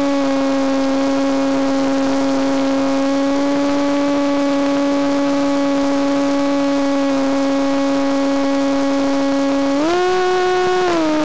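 Electric motor and propeller of a Penguin FPV model plane running steadily in flight, a constant droning tone. About ten seconds in the pitch steps up for about a second, a brief increase in throttle, then settles back.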